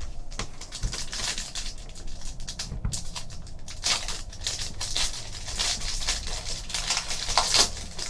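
Trading card pack wrapper being torn open and crinkled, with a run of irregular rustles and crackles as the cards are pulled out and handled.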